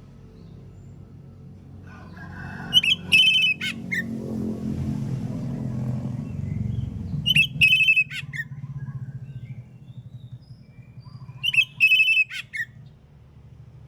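Oriental magpie-robin (kacer) singing loud whistled phrases, three short bursts about four seconds apart, over a low steady background rumble.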